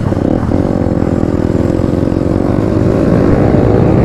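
Motorcycle engine running on the move, its pitch rising slowly and steadily as the bike gathers speed.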